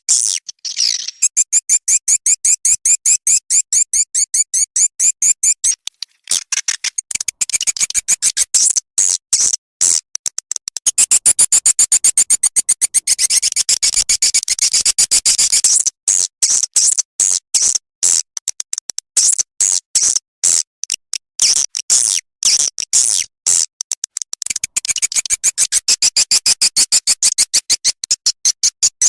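Swiftlet lure sound track played back: rapid high swiftlet chirps and trills over a fast run of dry clicks. The chirping thickens in three stretches, near the start, in the middle and near the end. This is a calling sound for drawing swiftlets into a bird house.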